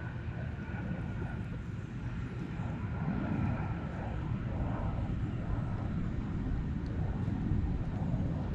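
Airplane flying over, a steady low engine drone with a thin whine that slowly falls in pitch and fades over the first few seconds.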